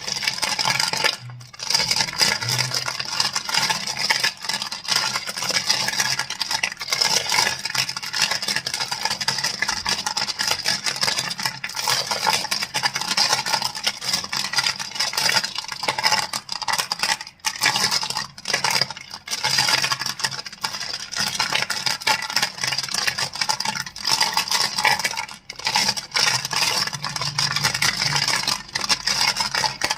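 Crystals clicking and clacking against each other in a dense, rapid run of small sharp clicks, with a few brief breaks.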